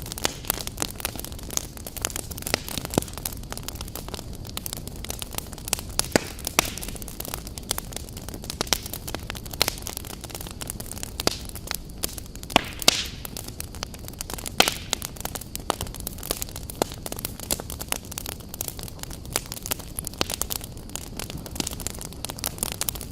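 Wood fire burning in a fireplace, popping and crackling with many sharp, irregular snaps over a steady low rush.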